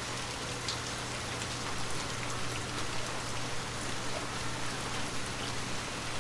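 Steady light rain on a window, an even hiss with scattered drops tapping, over a steady low hum.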